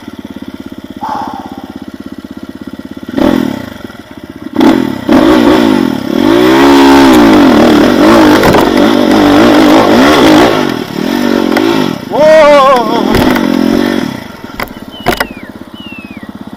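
Enduro motorcycle engine at a low, steady throttle. From about four seconds in it revs hard in repeated rising and falling bursts for roughly ten seconds, then drops back near the end.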